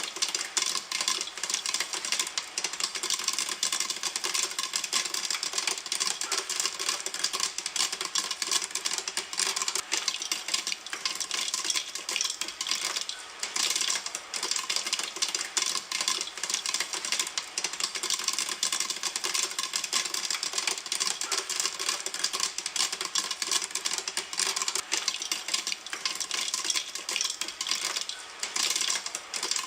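Popcorn kernels popping in a pan: a dense, continuous patter of sharp pops and clicks that keeps up steadily.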